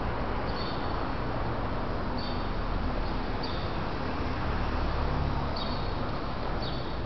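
Steady city background hum and hiss with a small bird chirping. The chirps are short and high, each dropping in pitch, and come every second or so.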